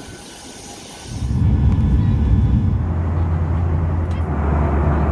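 A high hiss that gives way about a second in to a loud, steady low rumble with a droning low tone.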